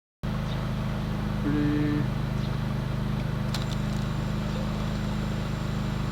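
Small camera drone's propellers buzzing steadily as it hovers after repair, a steady hum with a few low pitches held together, and a short beep about one and a half seconds in.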